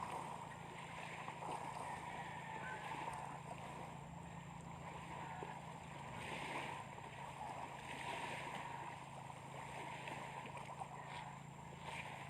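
A steady low engine-like drone with a hiss over it, running evenly without change.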